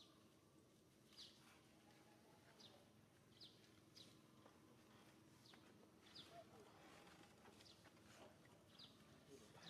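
Faint outdoor ambience with a bird giving short, high, downward chirps, one roughly every second.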